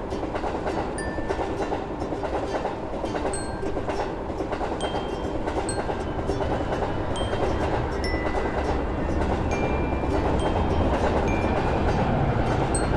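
A train running past, a steady rumble of wheels on track that grows a little louder toward the end, with short high ringing notes scattered over it.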